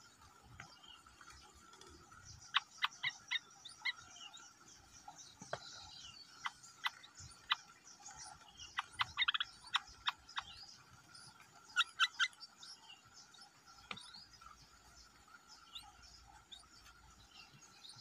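Short, sharp bird chirps in quick bunches, from the nestlings begging and the parent songbird at the nest during feeding. They sit over a steady background chorus.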